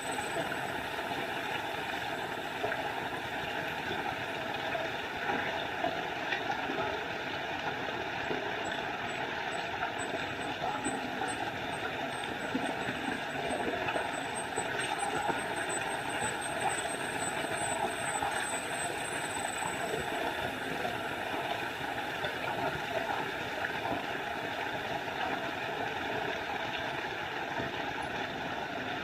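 Small forest waterfall rushing steadily, an unbroken hiss of falling water.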